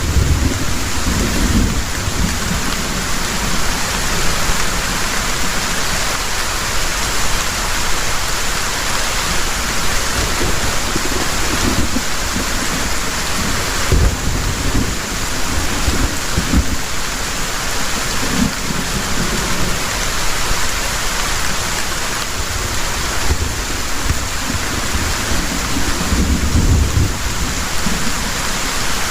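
Heavy rain pouring steadily in a dense hiss, with several low rumbles of thunder coming and going beneath it, including one near the end.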